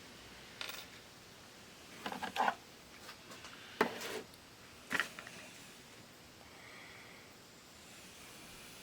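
Small parts of an 8-track tape player's mechanism being handled and worked on: a few scattered clicks and short scrapes. There is a cluster about two seconds in, a sharp click near four seconds and another click around five seconds.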